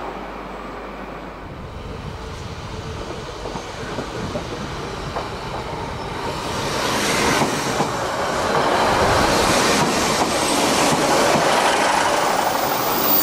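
A train running along the track, growing louder over the second half, with wheels clicking over rail joints.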